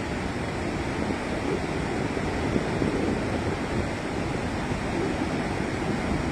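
Water rushing steadily from a dam's flood release, a continuous wash of noise, with wind buffeting the microphone.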